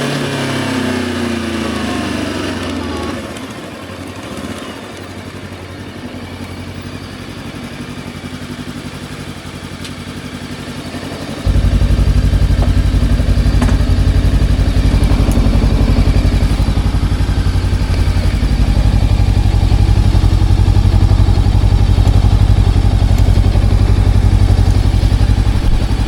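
Voge 525 DSX parallel-twin motorcycle engine slowing down, its pitch falling over the first few seconds, then running quietly for several seconds. About eleven seconds in, a loud, steady low rumble starts suddenly and carries on.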